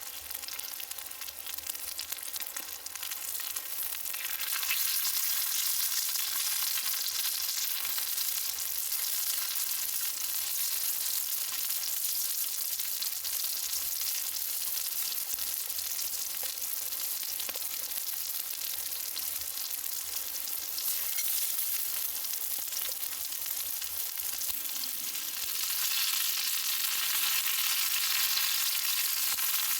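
Food sizzling in a frying pan, a steady hissing sizzle that grows louder about four seconds in and again near the end.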